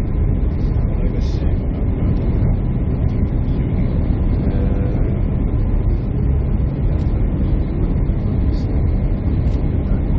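Steady, loud rumble of airliner cabin noise: engine and airflow sound heard from inside the passenger cabin.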